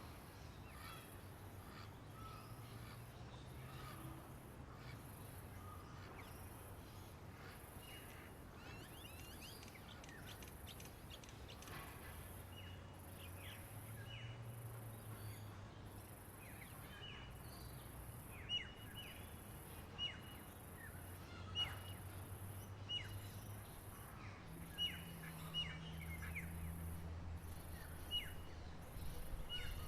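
Birds chirping: faint scattered calls at first, then from about halfway, short high notes that drop sharply in pitch, repeated every second or two. A steady high pulsing of about one beat a second runs beneath them.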